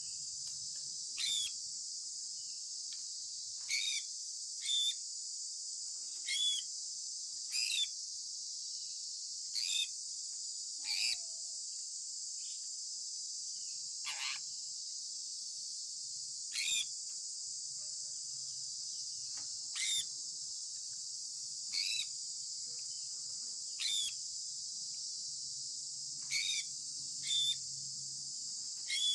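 Sun conure parrot giving short chirps, about fourteen of them at one every two seconds or so, each dropping in pitch. A steady high hiss runs underneath.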